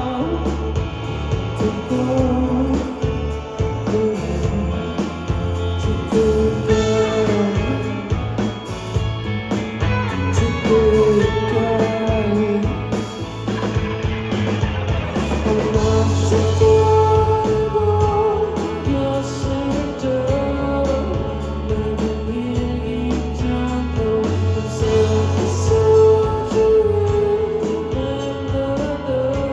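Live rock band music: a sung vocal over electric guitars, bass and drums.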